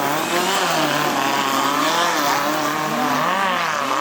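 Off-road 4x4 competition vehicle's engine revving up and down repeatedly, its pitch rising and falling about every half second as the driver works the throttle.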